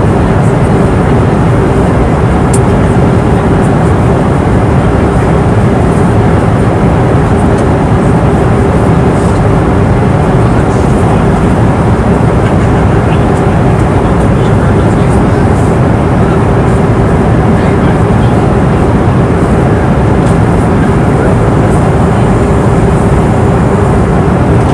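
Airliner cabin noise in cruise: a steady, loud rush of engine and airflow noise with a constant hum running through it.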